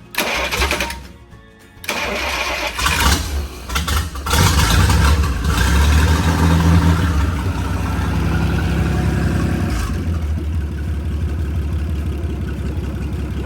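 Freshly overhauled Chris-Craft Model W marine engine, a marinized Hercules six-cylinder, starting up. It catches about two seconds in, is blipped a few times, then settles into a steady run.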